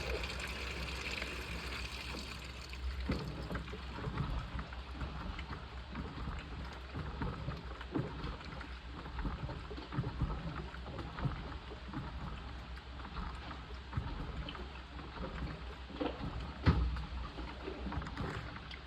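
Washing machine running a wash: water sloshing and splashing irregularly in the tub over a steady low motor hum.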